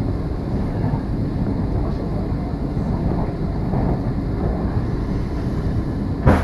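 Passenger train running at speed, heard from inside the carriage: a steady rumble of wheels on the track, with one sharp knock near the end.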